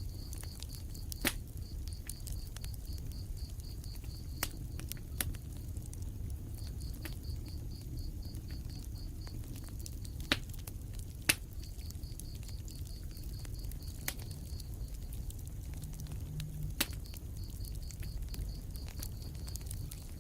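Wood fire in a fireplace burning with a steady low rumble and scattered sharp crackles and pops, a few of them loud. A high, fast pulsing chirp comes and goes in runs of a few seconds.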